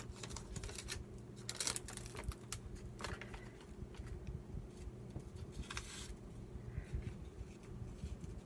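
Paper and card rustling and light clicks from handling a pile of craft papers and ephemera, irregular throughout, over a low steady hum.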